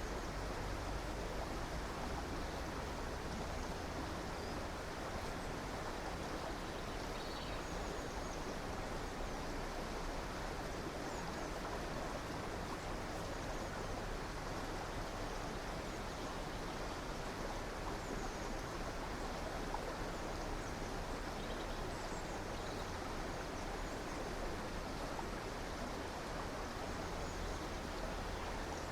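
River or stream water flowing steadily, with a few faint, short high bird chirps now and then.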